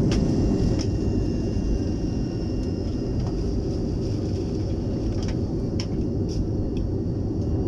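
Cabin noise of a BAe 146-200 airliner, its four Lycoming ALF502 turbofans running while it taxis: a steady low rumble with a faint high whine and a few light clicks and rattles.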